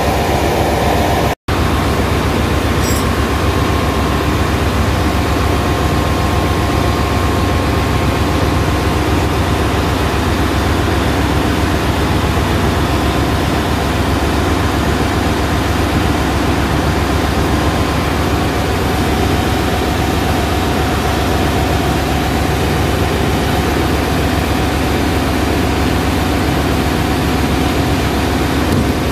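Ship's engine-room machinery running: a loud, steady drone of heavy diesel engines and pumps, cutting out for an instant about a second and a half in.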